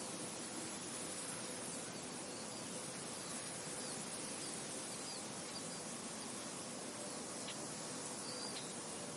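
Steady wind through a field, with a few faint, short high bird chirps scattered through it.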